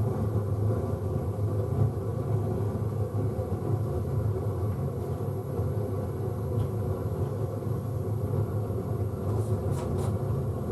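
Foundry furnace burner running, a steady low rumble through the refractory-lined furnace.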